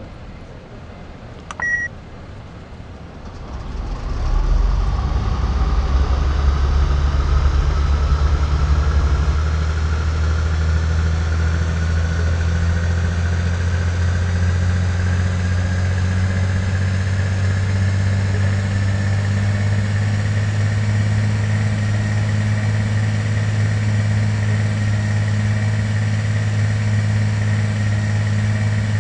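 Inside an airliner's cabin, a single short chime about two seconds in. The aircraft's engines then spool up a second or two later and run loud and steady, with a whine that climbs slowly in pitch, as thrust is brought up for the takeoff roll.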